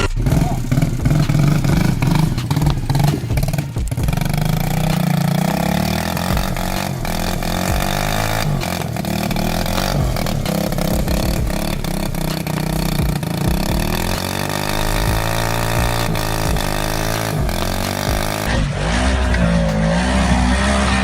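Off-road vehicle engines running and revving, the pitch rising and falling with the throttle, across several short clips with abrupt changes between them.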